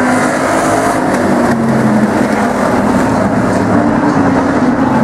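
Engines of a field of demo race trucks running at racing speed on an oval track: a loud, steady mix of engine notes drifting slightly in pitch.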